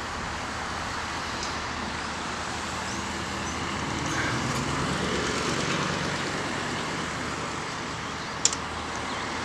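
Road traffic noise, with a vehicle passing by about halfway through, and a sharp click near the end.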